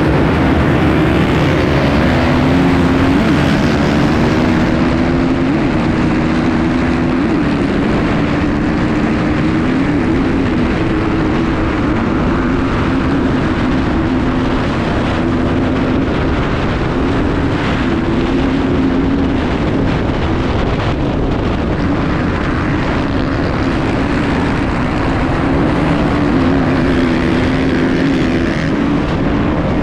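Enduro dirt bike engine running hard, its pitch climbing and dropping again and again with throttle and gear changes.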